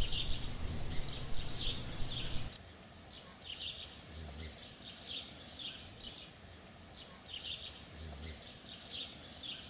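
Bird chirping in woodland: short high calls repeated about twice a second, over a low background rumble that drops away about two and a half seconds in.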